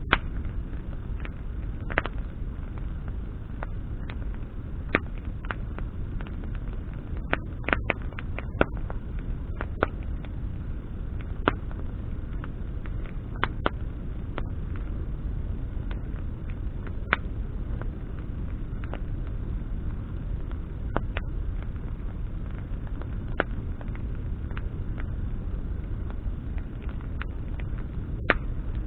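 Campfire of burning branches crackling: sharp, irregular pops and snaps over a steady low rumble, with a quick run of several pops about a third of the way in.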